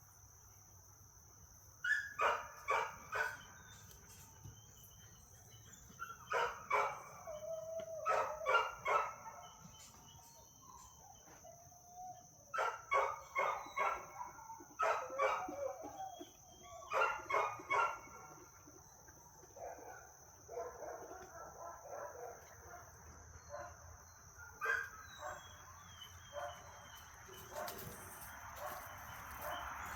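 Dogs barking in repeated short runs of three to five quick barks, with fainter scattered dog sounds in the quieter stretches near the end.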